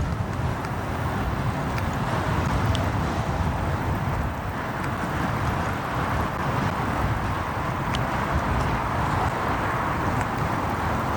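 Motorcycle riding in city traffic: steady engine, wind and road noise, with a few faint ticks.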